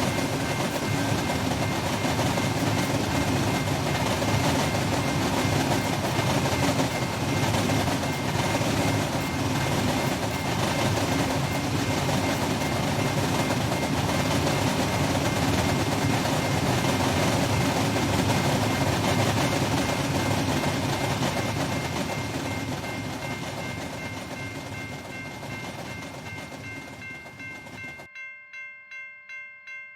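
Union Pacific coal train rolling past: steady rumble and rail noise from the cars, with a thin steady whine above it, fading away over the last several seconds. Near the end it cuts off suddenly and is replaced by a pulsing chime-like tone, about three pulses a second.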